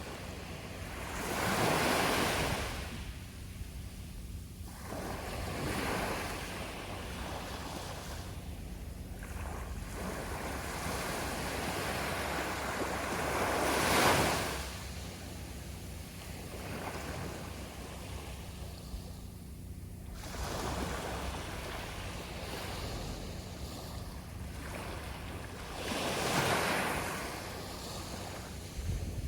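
Sea waves breaking and washing up a beach, each surge rising and falling away, four in all, the one about halfway through the loudest. A steady low wind rumble on the microphone runs underneath.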